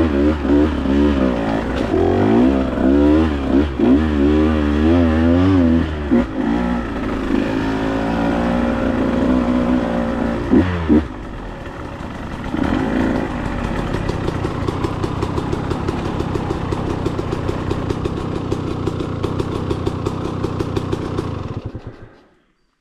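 Dirt bike engine revving up and down hard as it is ridden over rough trail, settling to a lower steady run about eleven seconds in, then dying away near the end.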